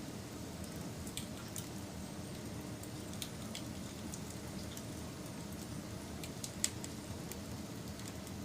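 Wood fire crackling: a steady low rumble of burning with scattered sharp pops and snaps, one louder pop about two-thirds of the way through.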